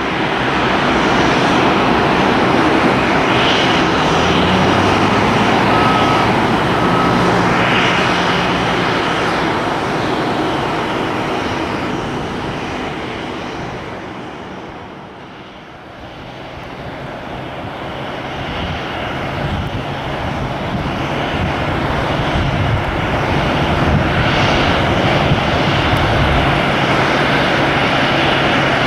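Boeing 737-800 jet engines at high power for takeoff, a loud steady roar that fades to a low about halfway through and then builds back up.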